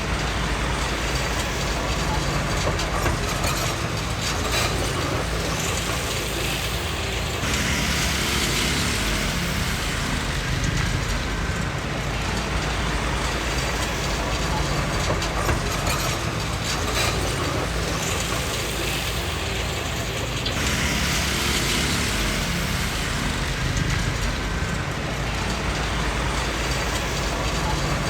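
Komatsu D20P crawler bulldozer working, its diesel engine running steadily with mechanical clatter. Twice, for a few seconds each, a harsher hissing sound rises over it: first about a quarter of the way in, then again about three-quarters of the way through.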